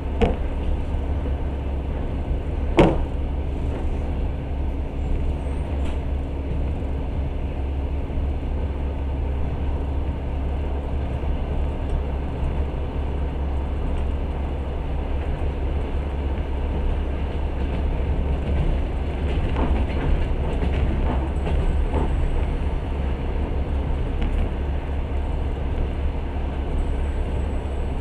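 Passenger train carriage running along the track, heard from inside: a steady low rumble of wheels on rails, with one sharp knock about three seconds in and a few fainter clicks later on.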